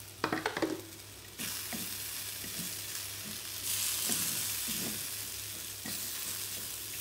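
Red lentils (masoor dal) frying in oil in a metal pot while being stirred with a spatula: a steady sizzle with scattered scrapes and taps. There is a cluster of scraping and tapping near the start, and the sizzle grows louder around the middle.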